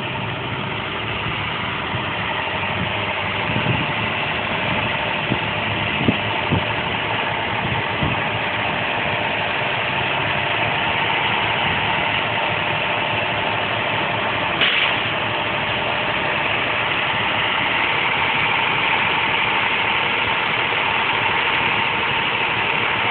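A vehicle engine idling steadily, with a few short knocks during the first third.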